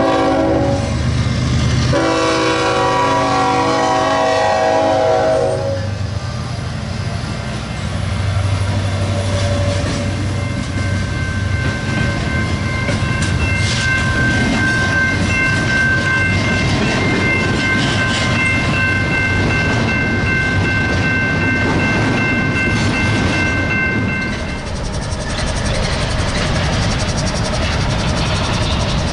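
Locomotive air horn sounding a chord, a short blast and then a longer one of about three and a half seconds, followed by the train rumbling past with wheel clatter. A steady high-pitched ringing tone runs for about ten seconds in the middle.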